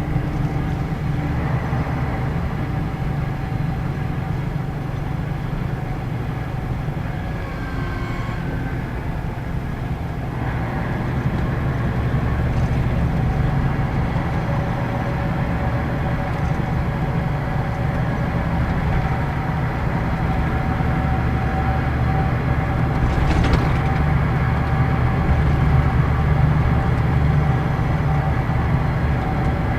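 Scania K113 bus diesel engine running under way, heard from inside the Carrus Star 502 bus. The engine note eases off about eight seconds in, then picks up and builds steadily, with a sharp click a little past the two-thirds mark.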